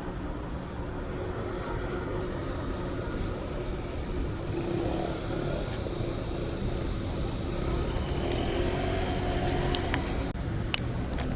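Street traffic noise with a steady low rumble. A vehicle swells louder after the middle, and a few sharp clicks come near the end.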